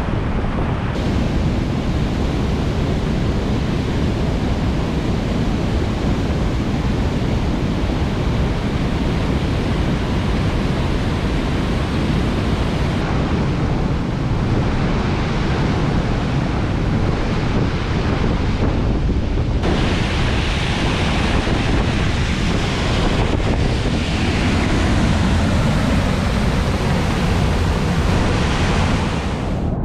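Large river waterfall, a steady rush of falling water.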